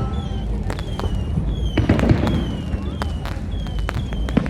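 Fireworks display going off: a rapid string of sharp bangs and crackles, with short high whistles falling slightly in pitch between them, over a steady low rumble.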